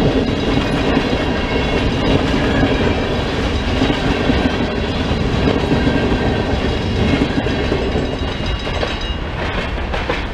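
Covered grain hopper cars rolling over a grade crossing, wheels clacking on the rails, with the crossing's WRRS mini bells ringing steadily. The last car passes about two-thirds of the way through and the rolling noise eases off while the bells keep ringing.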